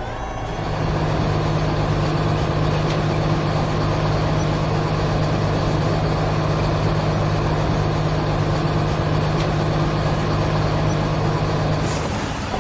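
Heavy construction-vehicle engine running steadily with a low, even hum, coming up about half a second in and easing off near the end.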